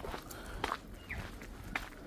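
Footsteps of a person walking, a few separate steps.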